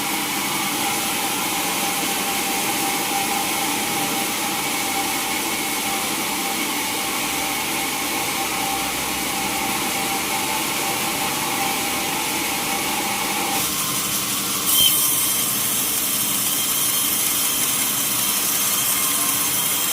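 Sawmill saw cutting through a mahogany log, a steady machine whine with rasping wood noise. About three-quarters of the way through the tone changes, a single sharp knock sounds, and the cutting turns higher and hissier.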